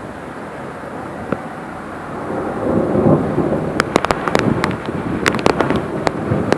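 Thunder from a nearby lightning strike during a thunderstorm, against a steady hiss. About two seconds in, a rumble swells up and breaks into a quick run of sharp crackles that dies back near the end.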